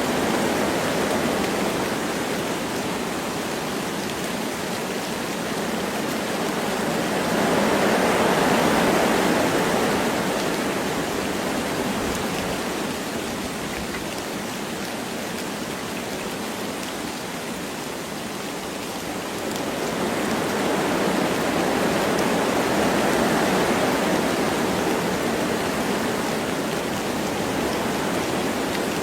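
Wind blowing through forest trees with light rain: a steady rushing hiss that swells twice, about eight seconds in and again around twenty to twenty-four seconds.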